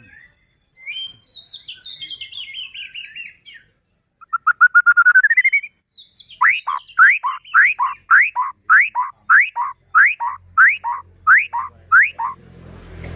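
White-rumped shama (murai batu) singing: a warbling phrase, then a fast trill rising in pitch, then a run of about a dozen loud upslurred notes at roughly two a second.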